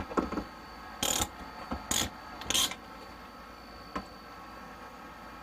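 Short bursts of tool and material handling noise during building work: five brief scraping or knocking sounds in the first three seconds, then a single click about four seconds in, over a faint steady background hum.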